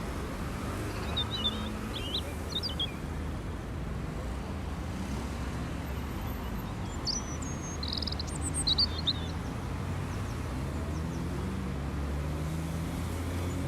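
Small birds chirping in short scattered bursts, twice, over a steady low vehicle rumble.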